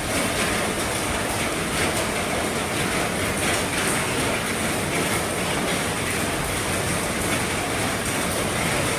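Heavy rain pattering steadily on an RV's roof, a dense even hiss with faint drop impacts through it.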